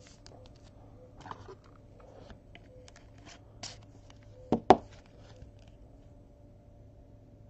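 Handling of trading cards and their holders: scattered light clicks and rustles, with two sharp knocks close together about four and a half seconds in.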